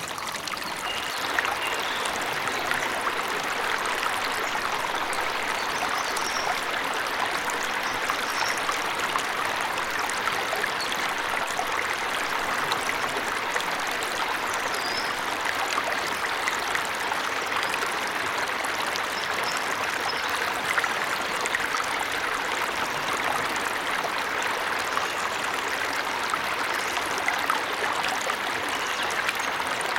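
Forest waterfall: steady rushing and splashing of falling water, with a few faint high bird chirps now and then.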